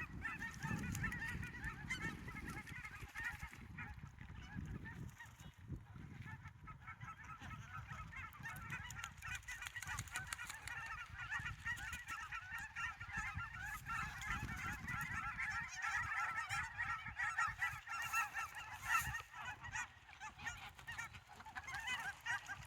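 A large flock of Canada geese honking, many short calls overlapping in a dense, continuous chorus, with a low rumble underneath.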